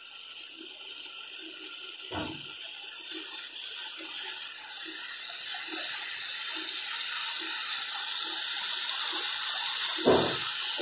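Bitter gourd thokku frying in a kadai on a gas stove: a steady hiss that grows louder, with soft pops about twice a second. A perforated ladle knocks against the pan about two seconds in and again near the end.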